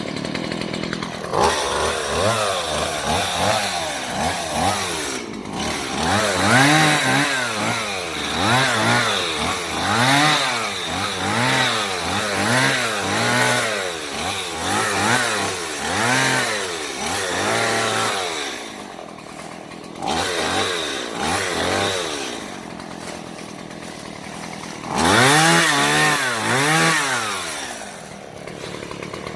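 Stihl MS 170 small two-stroke chainsaw revving up and falling back over and over, about once a second, while cutting brush. It drops to a quieter idle for a few seconds after the middle, then revs again near the end.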